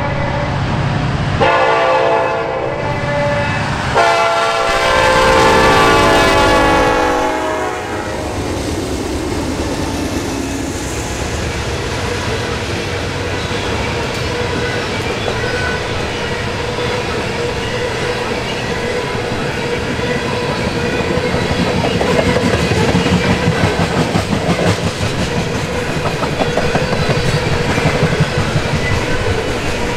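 Horn of a Norfolk Southern EMD SD70ACE locomotive: a blast that ends right at the start, a shorter one about a second and a half in, then a long one from about four to seven and a half seconds in that drops in pitch as the locomotive passes. After that, loaded ethanol tank cars roll by with a steady rumble and a steady ringing tone, the wheels clacking rhythmically over the rail joints, more strongly near the end.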